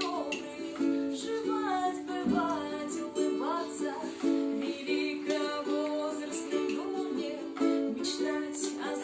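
Ukulele strummed in steady chords, with a gliding sung melody over it.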